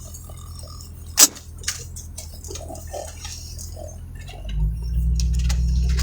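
Vehicle engine running low and steady inside the cab, with a sharp click about a second in and a smaller one just after. About four and a half seconds in the engine note rises and holds louder as the vehicle pulls away after turning around.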